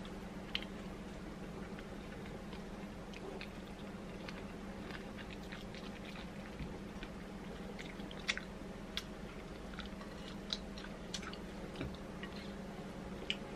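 A person chewing food, with scattered short mouth clicks through it, over a steady low hum.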